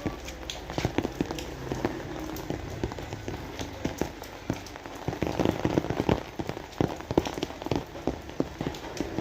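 Rain falling, with many separate drops ticking and splashing close by; it gets heavier about five seconds in.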